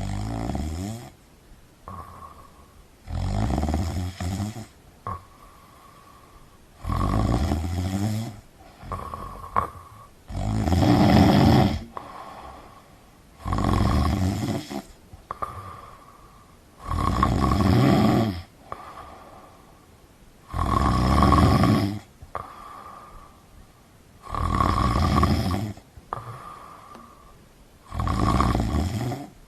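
Snoring in a steady rhythm: about nine loud snores, one every three and a half seconds or so, each lasting about a second, with quieter breaths between them.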